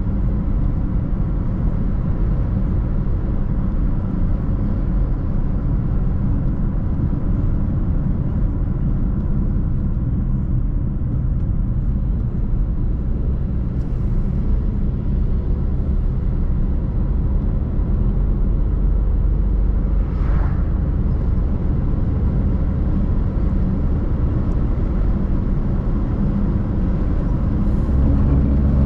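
A car driving along a road, with a steady rumble of tyre and engine noise.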